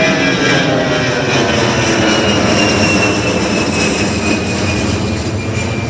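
Airbus A320 jet airliner climbing out just after takeoff. Its engines make a loud, steady noise, with a high whine that slowly falls in pitch.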